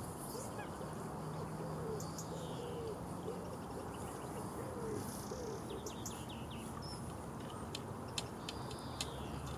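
Wild birds calling: a run of short, low, repeated calls about twice a second in the first few seconds, then quick high chirps in the second half, over a steady background hiss.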